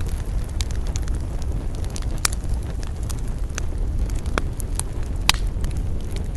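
Wood campfire burning, crackling with irregular sharp pops, the loudest a little past two seconds and about five seconds in, over a steady low rumble of wind.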